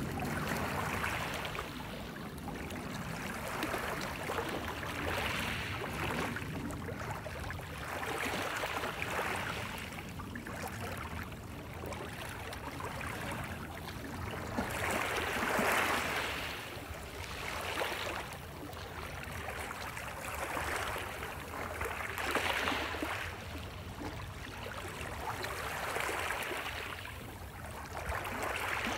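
Waves washing in, a hissing swell rising and falling every two to four seconds.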